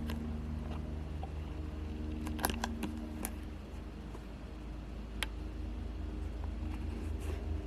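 A steady low mechanical hum, with a few sharp clicks: a short cluster about two and a half seconds in and a single click a little past the middle.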